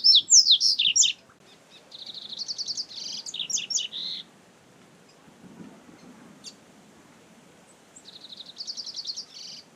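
Double-collared seedeater (coleiro) singing: three fast phrases of rapid, high twittering notes. The loudest phrase comes at the start, another about two seconds in, and a third near the end.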